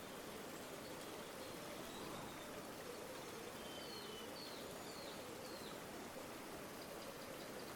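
Steady rushing of a flowing river, with a few faint, high bird chirps about halfway through.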